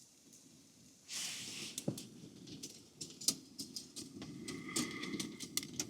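Wood fire burning in a small tent wood stove: sharp crackles and pops over a low steady rumble, starting with a soft hiss about a second in.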